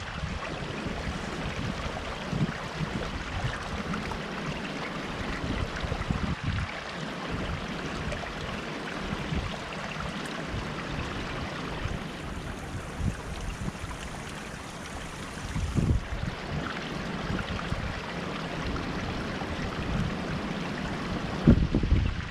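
Strong wind buffeting the microphone in uneven gusts, over a steady rushing hiss.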